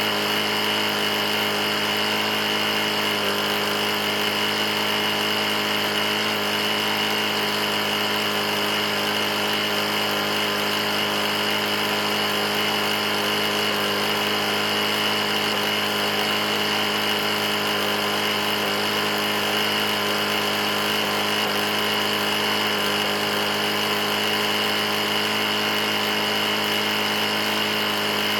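Briggs & Stratton E450 lawn mower engine running steadily at constant speed. The engine has a bad knock, which the owner puts down to having been run nearly out of oil.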